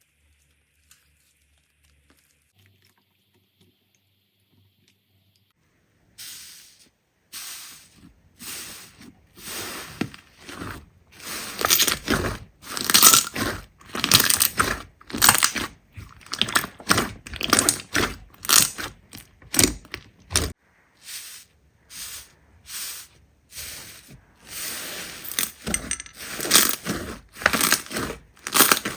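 Crunchy slime being squeezed and pressed by hand, giving crisp crackling crunches in a rhythmic run of strokes, about one to two a second. The crunching starts about six seconds in, after a near-silent stretch.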